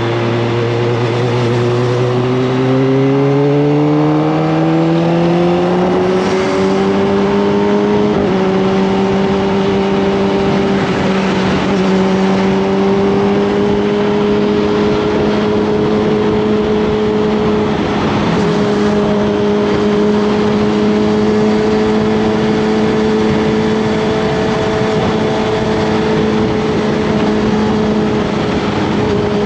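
Kawasaki ZX-25R's 249 cc inline-four engine pulling up through the revs with a smoothly rising pitch for the first several seconds, then holding a steady high pitch under constant throttle.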